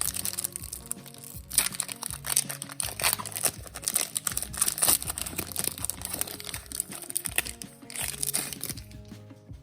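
Foil Pokémon TCG booster pack wrapper crinkling and crackling as it is handled and torn open, in irregular bursts over background music.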